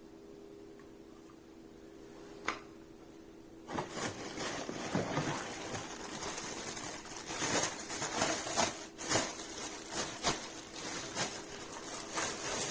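Handling of packaging as vacuum parts are unboxed: a single click, then from about four seconds in a dense rustling and crinkling with many sharp clicks and knocks. Before the rustling starts there is only a faint steady hum.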